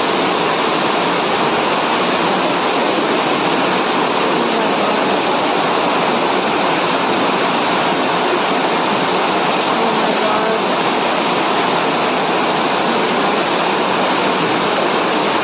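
Floodwater rushing past in a loud, steady torrent.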